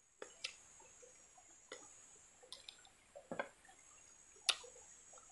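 Close-up eating sounds: chewing and wet lip smacks, heard as a handful of short, sharp clicks, the loudest about four and a half seconds in, over a steady high hiss.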